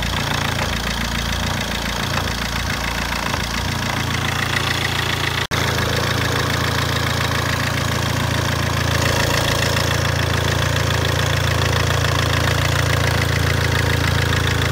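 Fiat Albea 1.3 Multijet four-cylinder turbodiesel idling steadily with a knock from the engine. There is a brief break about five and a half seconds in, after which it runs on a little louder.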